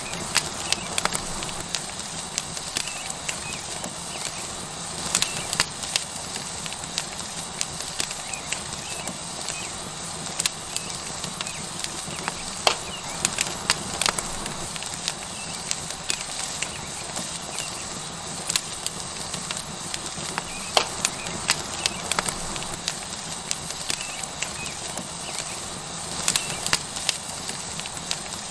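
Tomahawk steak sizzling on a hot rock over a wood fire: a steady hiss with irregular sharp crackles and pops from the burning wood.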